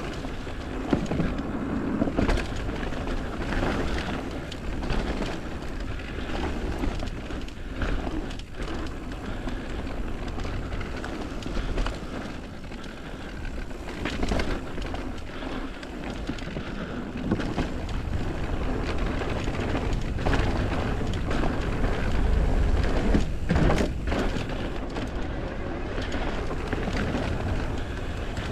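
Mountain bike riding down a dirt-and-rock trail: tyre noise over the ground with frequent knocks and rattles from the bike as it hits roots and rocks, over a low rumble that swells near the end.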